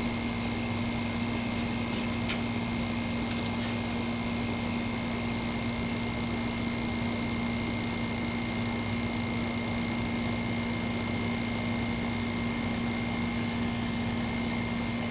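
Window air conditioner running on test: its LG rotary compressor and fan make a steady hum with a faint high whine and an even rush of air. The unit is still cooling down, as a rotary compressor takes a while to get cold.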